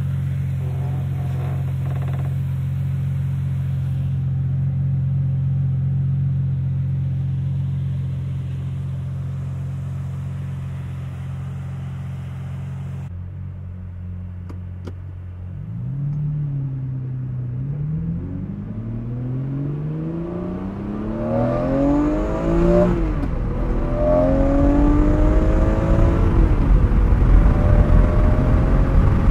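The V12 of a 2004 Lamborghini Murcielago running steadily at a constant pitch, then, after a brief quieter stretch, accelerating hard through the six-speed manual gearbox: the engine note climbs, drops back at each of several upshifts and climbs again, growing louder toward the end.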